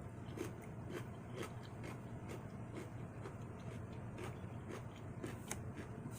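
Soft chewing of food with small wet mouth clicks at an irregular pace, about one or two a second, over a low steady hum.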